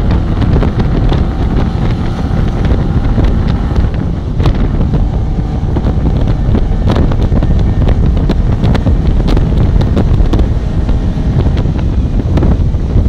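Heavy wind buffeting on the microphone over the steady running of a Datsun Fairlady roadster's swapped-in SR20DE four-cylinder engine at highway speed.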